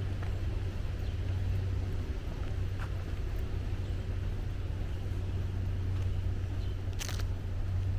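Steady low rumble of distant road traffic, with a brief sharp sound about seven seconds in and a few faint high chirps.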